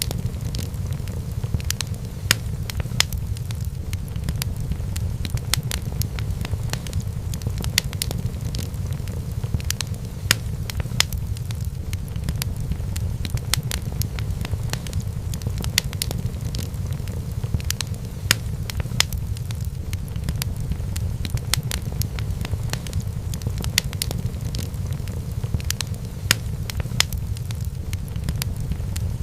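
Wood fire in a fireplace crackling steadily: irregular sharp pops and snaps over a constant low rumble of the flames.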